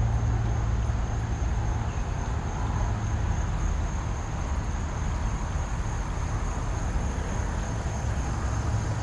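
Steady outdoor rushing noise with a strong low rumble, and a thin, high, steady whine above it.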